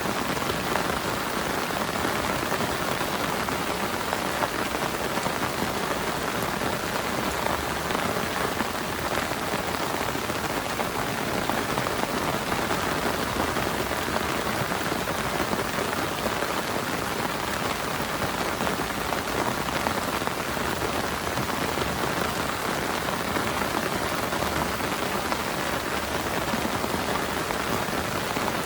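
Heavy rain falling steadily, an even dense hiss of drops that does not let up.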